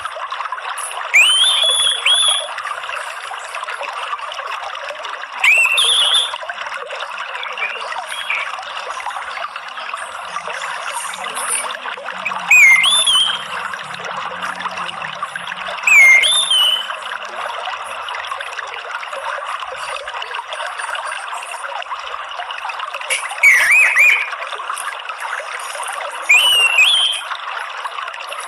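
Water trickling steadily, a water-therapy track for caged songbirds, with a short rising bird whistle breaking in six times at intervals of a few seconds, each louder than the water.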